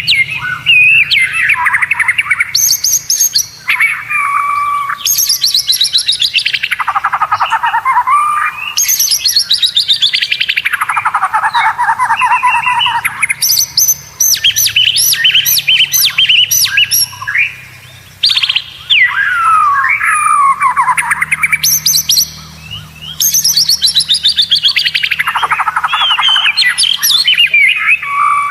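White-rumped shama (murai batu) singing loudly in long, varied phrases. Fast rattling runs and sweeping notes slide down in pitch, with short gaps every few seconds.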